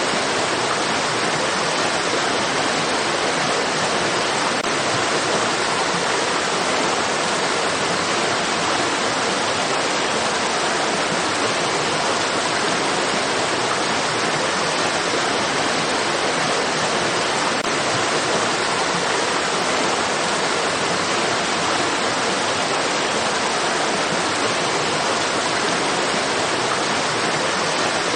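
Flowing water rushing steadily, an unbroken even hiss with no changes or separate splashes.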